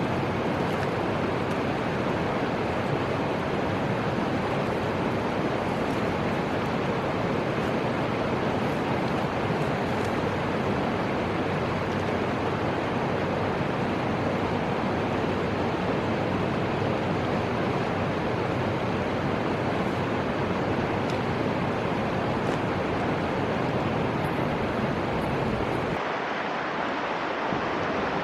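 Steady rushing noise of the Fuji River's flowing water, mixed with wind; the deep low rumble thins out briefly near the end.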